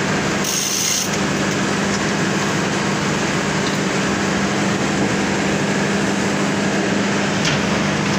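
Steady drone of running palm oil mill machinery with a constant low hum, and a brief burst of hissing noise about half a second in.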